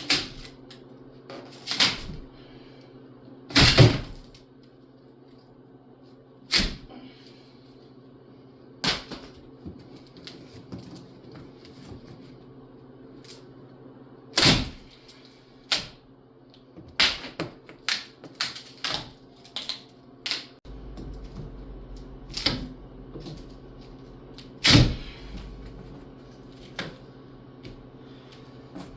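Irregular knocks, clicks and clunks, a dozen or so at uneven gaps, like objects being handled, over a steady low hum. A deeper low rumble joins about two-thirds of the way through.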